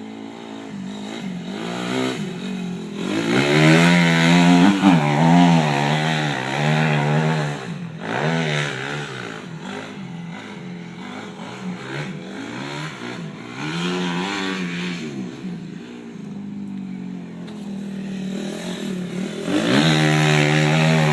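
Dirt bike engine revving up and down over and over as it is ridden, loudest about four seconds in and again near the end.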